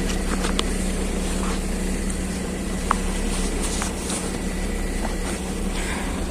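LiAZ 6213.22 articulated city bus running, heard inside the cabin: a steady low engine hum with a few small clicks and rattles.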